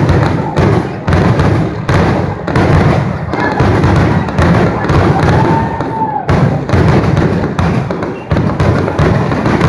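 Fireworks finale: aerial shells bursting in rapid, overlapping succession, a continuous barrage of deep booms and cracks, with a brief whistling tone about five seconds in.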